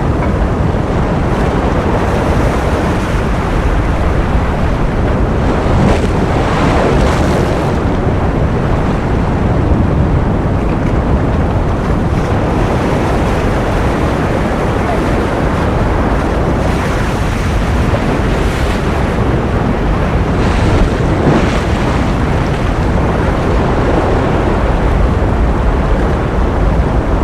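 Ocean surf noise: a steady, dense rush like breaking waves, with a few brief brighter washes of hiss swelling up through it.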